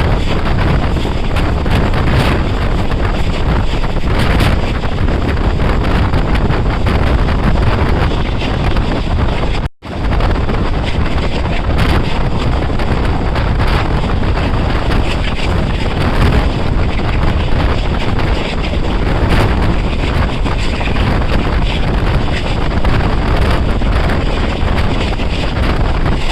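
Passenger train running at speed: wind rushing over the microphone on top of a steady rumble of wheels on the track. The sound cuts out for an instant about ten seconds in.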